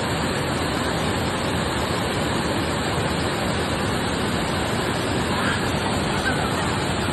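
Waterfall cascading, a steady, even rush of water, with faint voices briefly about two-thirds of the way through.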